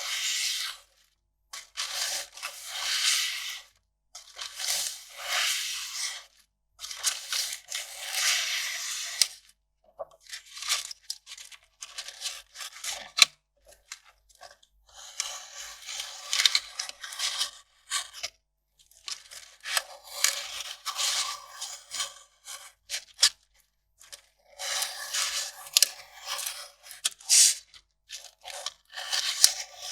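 Kraft paper being torn and crinkled in a series of rips, each lasting a second or two with short pauses between, and a few choppier crackling stretches.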